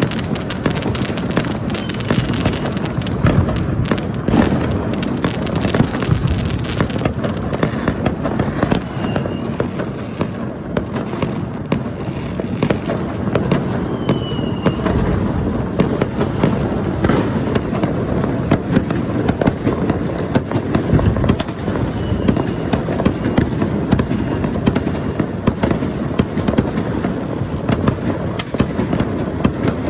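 Many fireworks and firecrackers going off at once, a dense, unbroken crackle of overlapping bangs, with a few short faint whistles among them.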